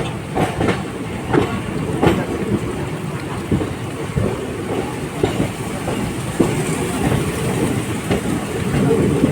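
ICF passenger coach of an express train running on the track: a steady rumble with irregular clicks and knocks of the wheels clattering over rail joints.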